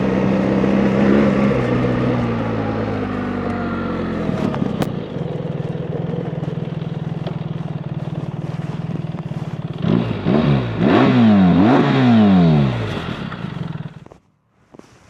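BMW R 1300 GS Adventure's 1300 cc boxer twin slowing and settling into a steady run, then revved in three quick throttle blips, about ten to thirteen seconds in. The engine then cuts off suddenly.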